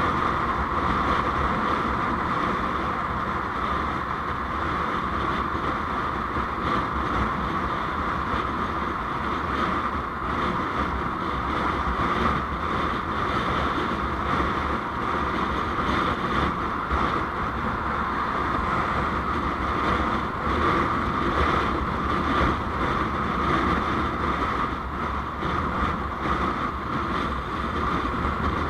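Steady wind and road noise from a moving vehicle, with the wind buffeting the microphone, running at an even level.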